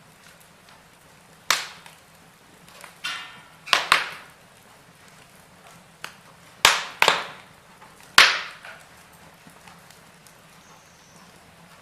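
Wood fire burning in a fireplace, crackling with a series of sharp, irregular pops and snaps over a faint steady hiss; the loudest pops come about seven and eight seconds in.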